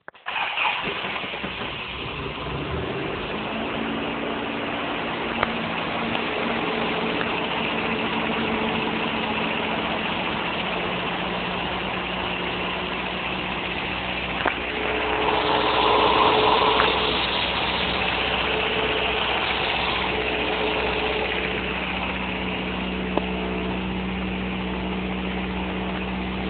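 Toyota Corona's 22R-E 2.4-litre four-cylinder engine starting and settling into a steady idle. About 15 to 17 seconds in, it briefly gets louder before returning to idle.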